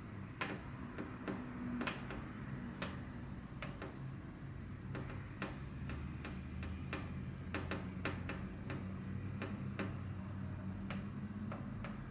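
Sharp little taps in short, uneven groups: a person tapping a rhythm with a finger and a budgerigar tapping its beak against its cage wire in imitation. A steady low hum runs underneath.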